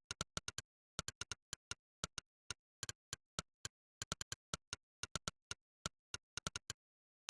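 Monkeytype's synthesized 'click' keystroke sound, one short sharp click per key press, in the uneven rhythm of fast typing: clusters of about four or five clicks a second with brief gaps between words.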